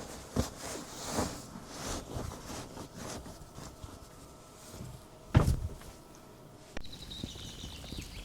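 Footsteps, rustling and light knocks of someone moving about and handling things, with one loud thump about five seconds in. Birds start chirping near the end.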